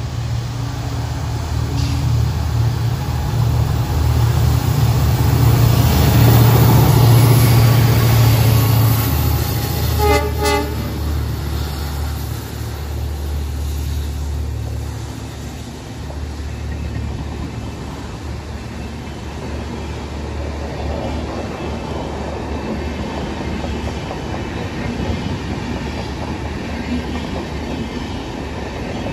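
Indian Railways train running past at speed, its rumble swelling to a peak a few seconds in and then carrying on steadily. A short horn blast sounds about a third of the way through.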